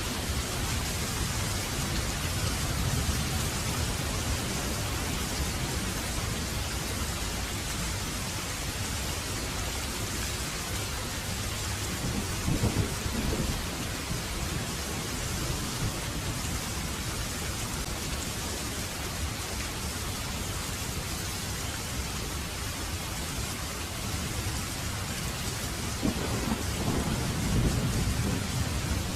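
Heavy rain falling steadily, a dense hiss over a low rumble of thunder. The thunder swells twice: briefly about twelve seconds in, and again for a couple of seconds near the end.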